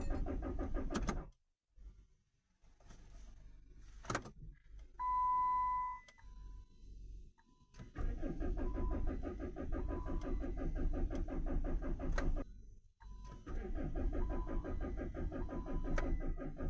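Chrysler Grand Voyager's starter cranking the engine in repeated tries, with a steady rhythmic churn that stops and starts again, and the engine never fires. A click and a short electronic beep come in a pause between tries. The engine cranks without starting because the crankshaft reluctor wheel is damaged, so the crankshaft position sensor gets no signal.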